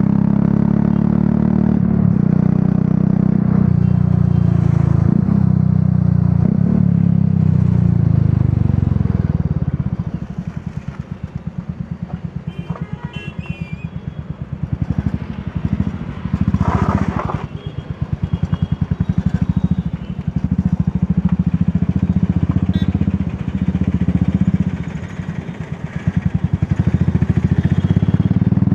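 Royal Enfield Classic 350's single-cylinder engine through an aftermarket Dolphin exhaust, riding at speed with the pitch falling as it slows. About ten seconds in it drops to a low-rpm thump with each firing pulse distinct, then picks up and eases off again several times.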